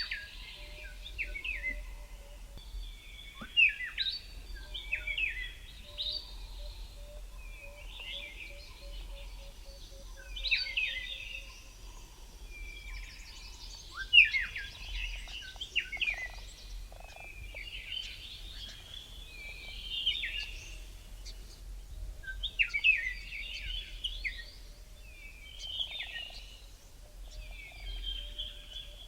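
A chorus of several birds singing, with short, quick song phrases following one another throughout. Behind it runs a faint series of low, evenly repeated notes.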